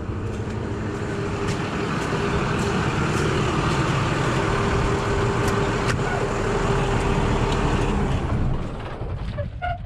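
Truck engine running steadily, then shutting off and dying away about eight and a half seconds in.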